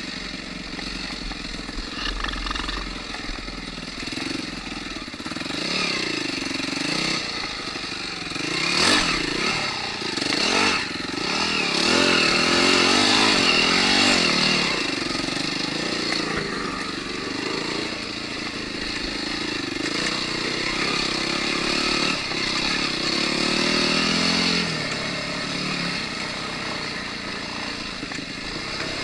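Enduro dirt bike engine being ridden, revving up and down with the throttle over rough ground. It is loudest for a few seconds about twelve seconds in, then settles back to lower revs.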